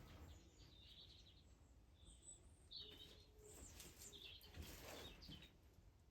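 Faint, scattered chirps of small birds over near silence.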